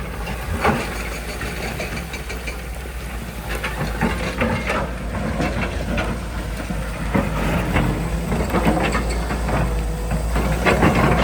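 Diesel engine of a backhoe loader running steadily, with a few sharp knocks and clanks scattered through it.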